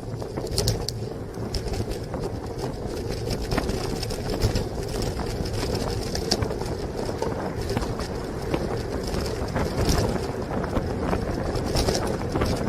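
Steady road and engine noise of a car driving, with scattered light ticks and knocks.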